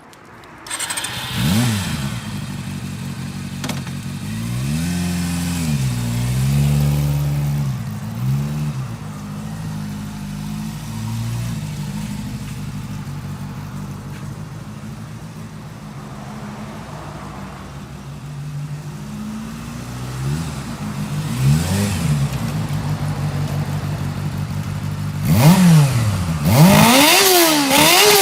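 Honda CB400 Super Four's inline-four engine starting up about a second in, then idling, with several throttle blips in the first ten seconds and a run of quick, sharp revs near the end.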